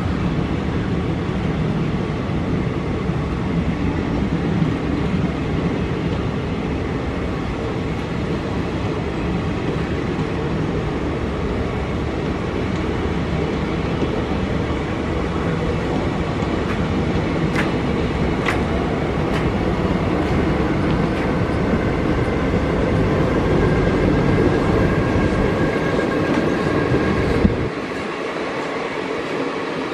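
Indian Railways passenger express train passing close by: a steady rumble of coaches rolling on the rails, with a few sharp clicks from the wheels in the middle. The low rumble drops away suddenly near the end.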